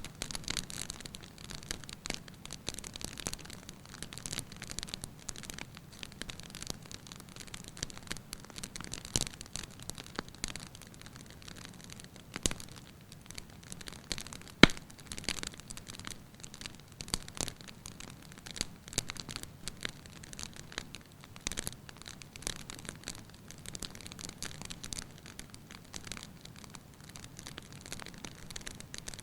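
Firewood burning in a fireplace, crackling lightly with frequent small irregular snaps over a soft hiss, and one sharp loud pop about halfway through.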